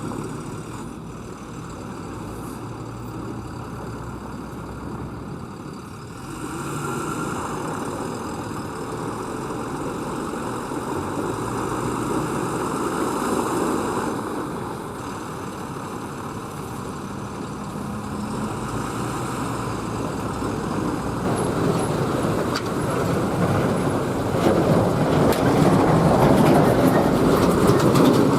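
Loaded tipper trucks running along a road: a continuous rumble of engines and tyres that grows louder over the last few seconds.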